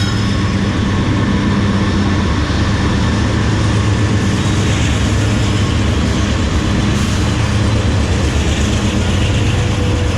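Diesel-hauled train passing close by on the adjacent railroad bridge: a loud, steady rumble with a low engine drone.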